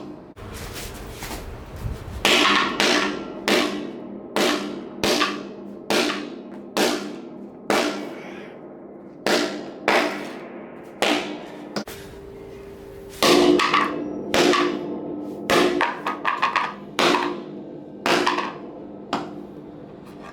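Large wooden mallet striking hard over and over, about twenty sharp blows roughly one every 0.7 seconds, each with a short ring, with a brief pause about twelve seconds in.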